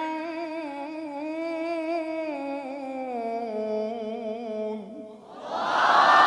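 A male Quran reciter's voice holds the last word of a verse in a long, ornamented melismatic line that steps down in pitch and ends about five seconds in. The audience then breaks out in a loud burst of cries of approval.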